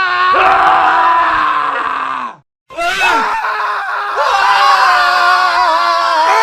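Several men screaming at once in a sustained chorus. Their pitch drops away after about two seconds and the sound cuts to silence for a moment, then a new stretch of several men screaming starts and holds.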